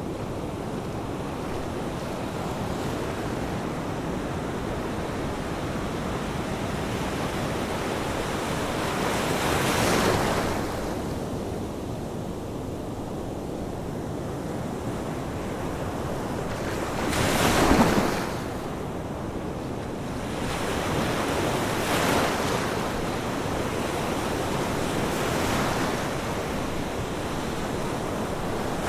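Ocean waves washing onto a shore: a steady rush of surf with a wave breaking every few seconds, the loudest one a little past halfway.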